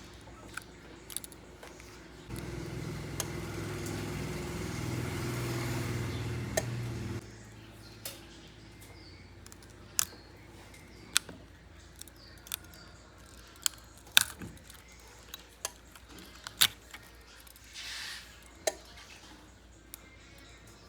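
A small motorised tool runs steadily for about five seconds, then a string of sharp, separate clicks and taps of small metal tools and parts during a phone teardown.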